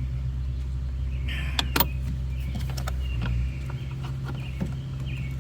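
A few sharp plastic clicks and knocks, the loudest about two seconds in, as the air filter box cover and its clips are worked into place, with short scraping sounds between them over a steady low hum.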